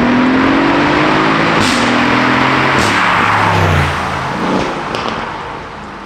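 Aston Martin Vantage's twin-turbo V8 through a Quicksilver straight-pipe exhaust, heard from inside the car, pulling hard with rising revs. It cracks through two upshifts, about a second and a half and three seconds in, then the revs fall away and it quietens.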